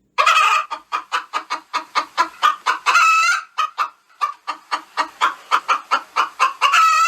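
Hen clucking in a rapid string of short clucks, about three or four a second, broken twice by a longer drawn-out call, the typical cackle of a domestic chicken.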